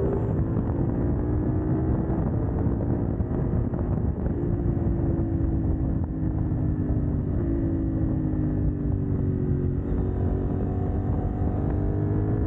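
CFMoto 800NK's parallel-twin engine with the catalytic converter removed, running while the bike is ridden. The engine note drifts down and up with the throttle, jumps up in pitch about seven seconds in, and climbs again near the end.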